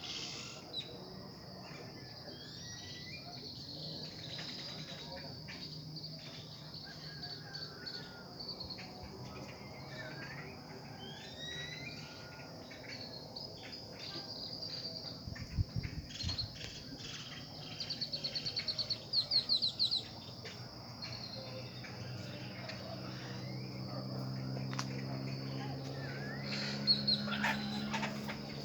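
Evening nature ambience: a steady high-pitched chorus of crickets with many birds chirping and calling over it, including a loud rapid run of chirps about two-thirds of the way through. A low steady hum grows in the last third.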